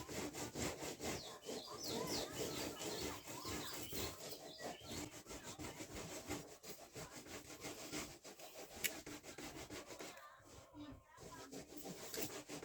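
Rapid scraping and rubbing along a caruá leaf as its spines are stripped off, in quick, uneven strokes.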